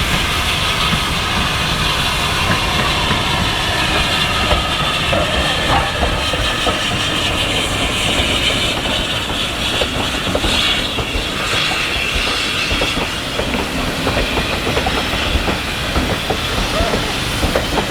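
Heritage railway train running along the track: a steady loud rumble of the wheels with an irregular clickety-clack of rail joints and a hiss over it.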